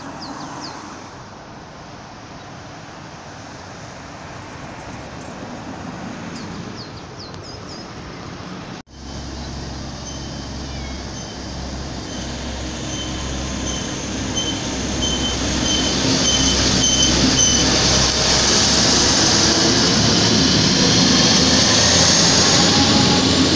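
DB class 612 diesel multiple unit approaching and running past close by, its low engine and rail rumble swelling to a steady peak as it draws alongside. A high, intermittent squeal sounds through the approach. Before it, a quieter stretch of faint outdoor noise with a few short chirps.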